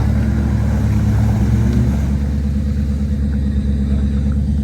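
Jeep WJ Grand Cherokee's engine running with a steady low rumble, its pitch shifting about two seconds in.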